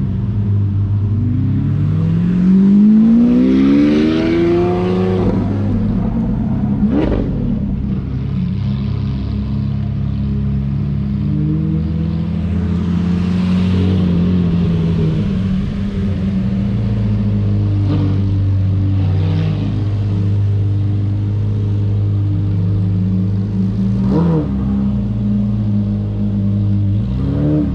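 Lamborghini engines running at low speed as the cars move off. A rev climbs in pitch a few seconds in, followed by a steady low drone with short throttle blips around the middle and near the end.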